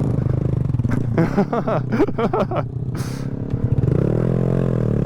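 Honda Grom's small single-cylinder engine running steadily, revving up and easing back off about four seconds in.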